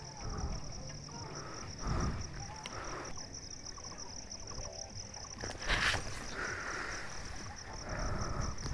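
Insects chirring in a steady, pulsing high drone, with a couple of brief noisy bumps, about two seconds in and near six seconds.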